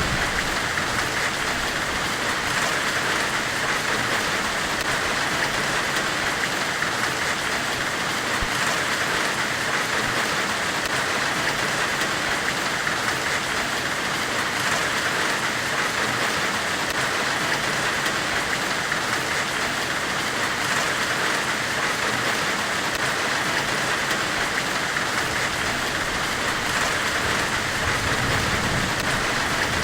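Steady white-noise hiss, even and unbroken, brightest in the upper-middle range, with faint soft ticks about every six seconds.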